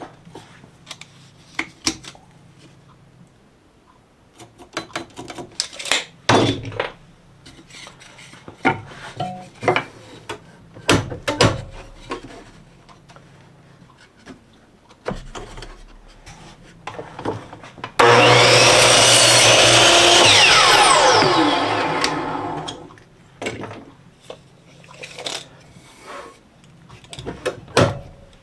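Wood being handled and set in place, with scattered knocks and clicks; about two-thirds of the way in a power saw starts suddenly and runs about two seconds through a small scrap board, cutting it at a 10-degree angle, then winds down with a falling whine.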